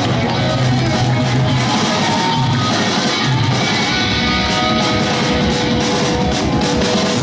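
Live pop-punk band playing loud and continuously: electric guitars holding notes over bass and drum kit.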